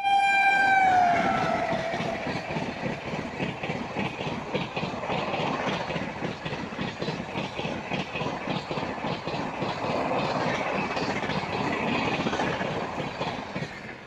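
Express train passing through a station at speed. Its horn sounds at the start and drops in pitch over the first second as the locomotive goes by. The wheels then clatter steadily and rhythmically over the rail joints, fading just at the end.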